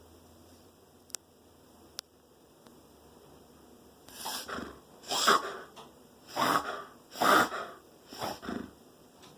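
A dog reverse sneezing: a run of five loud, noisy pulls of air through the nose, about one a second, starting about four seconds in. Two faint clicks come before it.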